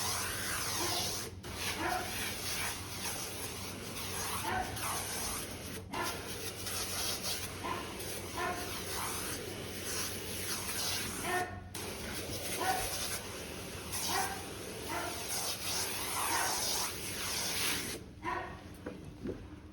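A dog barking and whining in many short calls, over a steady hiss and low hum; the sound drops away briefly a few times and goes quieter near the end.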